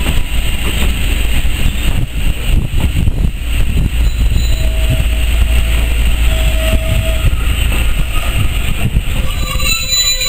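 Heritage railway passenger coaches rolling past at close range: a steady heavy rumble with irregular clattering from the wheels on the track.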